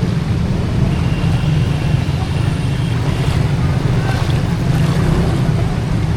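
Steady low rumble of street ambience in a flooded market, with no single sound standing out.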